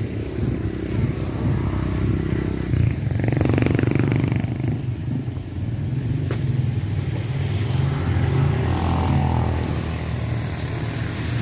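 Small engine running steadily, with a louder stretch a few seconds in and a single sharp click around the middle.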